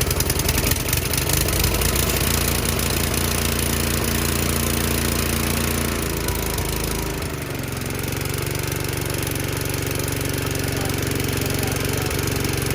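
An engine running steadily, its pitch and low rumble shifting about seven seconds in.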